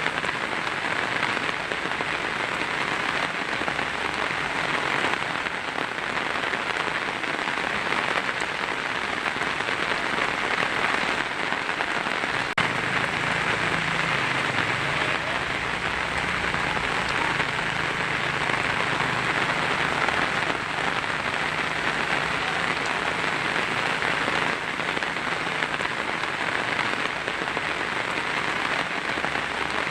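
Heavy rain drumming steadily on a tin roof, a dense, even patter.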